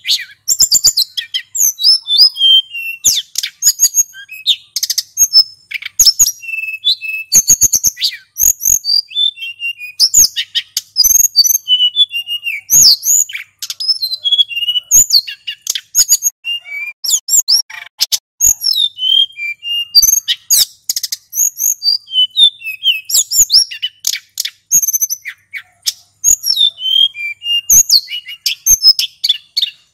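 Male sulingan gunung songbird singing continuously: a rapid, unbroken run of high whistled notes, quick downward glides and twittering trills with barely a pause.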